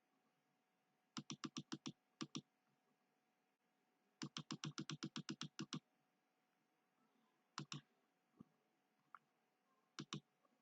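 Computer keyboard typing in short runs of keystrokes: a quick run of about six, two more, then a longer run of about a dozen, followed by scattered pairs of clicks.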